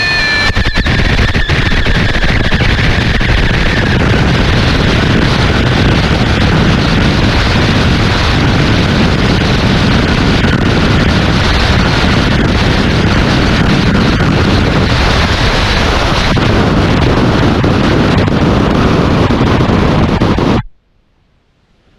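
Loud, steady, dense roar of rumbling noise, presented as a rocket's atmospheric re-entry heard from inside the craft. A high whine slides down in pitch and fades over the first few seconds. The roar cuts off suddenly near the end.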